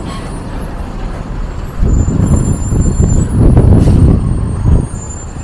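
A heavy road vehicle, a truck or bus, rumbling past in street traffic. The low rumble swells up about two seconds in and dies away near the end.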